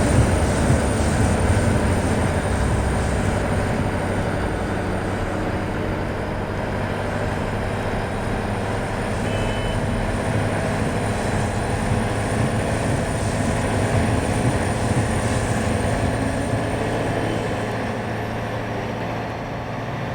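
Steady low rumble of a heavy vehicle running, gradually growing fainter toward the end.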